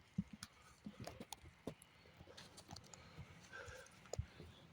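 Faint, irregular taps and knocks of rubbish being picked up and handled by hand.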